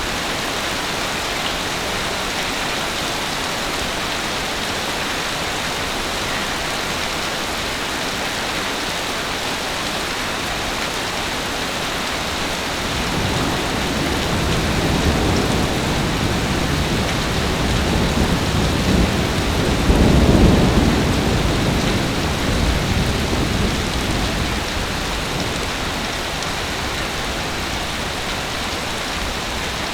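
Heavy rain falling steadily, with a long rolling rumble of thunder that builds from a little before the middle, peaks about two-thirds of the way in, and dies away.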